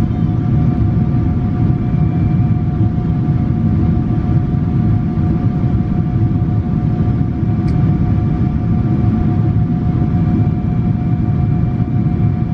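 Steady, loud roar of a Boeing 777-300's engines and rushing air, heard from inside the rear cabin, with a few steady whining tones over it. A brief click comes about two-thirds of the way through.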